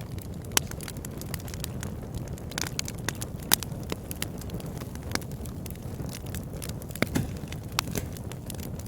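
Wood fire burning in a fireplace: a steady low rumble with irregular crackles and sharp pops, the loudest about half a second in, around three and a half seconds, and just after seven seconds.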